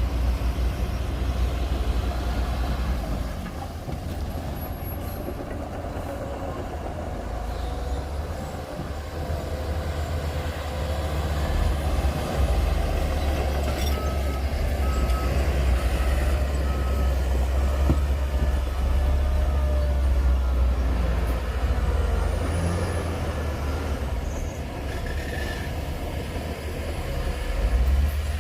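Heavy diesel earthmoving machinery running: a deep engine rumble that eases off for a few seconds early on, then grows louder again under load around the middle. A few short beeps sound about halfway through.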